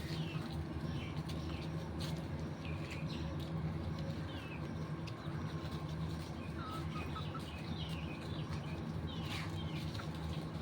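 Desi chickens chirping: many short, falling peeps scattered throughout, over a steady low hum.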